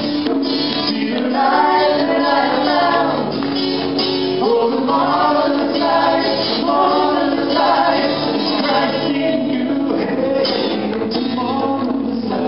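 A worship song performed live: a man and a woman singing together over acoustic guitar, drums and tambourine.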